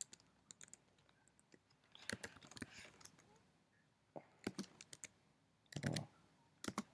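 Typing on a computer keyboard: irregular keystrokes in short bursts, with pauses between them.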